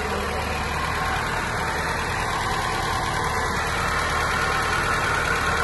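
Citroën DS5's 1.6 THP turbocharged four-cylinder petrol engine idling steadily on a cold start, its first run after a cylinder head overhaul.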